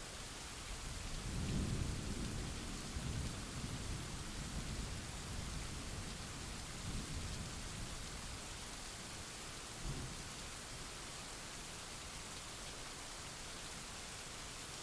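Steady rain hiss with a roll of thunder that builds about a second in and rumbles on for several seconds, then a short, lower rumble of thunder near ten seconds in.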